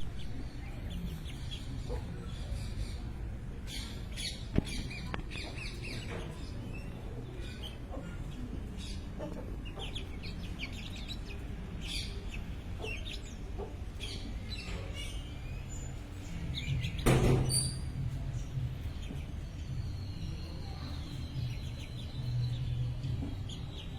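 Birds chirping in many short calls, over a steady low background rumble, with one brief louder noise about two-thirds of the way through.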